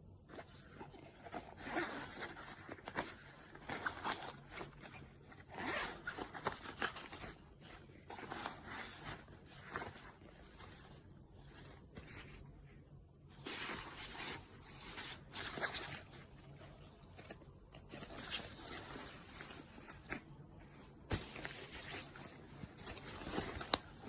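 Zippers on a fabric travel backpack being pulled open and shut again and again in short runs of a second or two, with the fabric rustling as the bag is handled.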